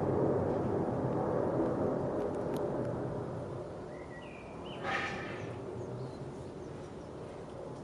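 Steady rumble of background traffic, easing off after the first few seconds; about four seconds in a bird gives a short chirp, then one brief harsh call.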